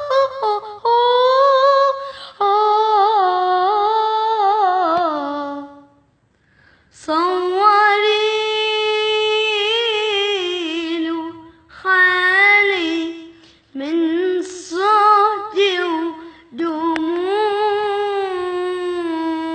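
A child's voice singing a wordless vocalise of long, high, ornamented notes with vibrato and quick trills. There is a short break about a third of the way through.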